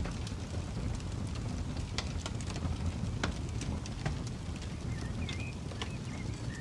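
Campfire crackling, with sharp pops at irregular moments over a steady low rumble. A few faint bird chirps come in around the middle of the stretch.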